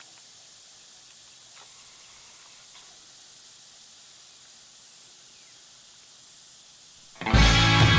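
Faint, steady high hiss of outdoor ambience with no distinct calls. Loud rock music cuts in sharply about seven seconds in.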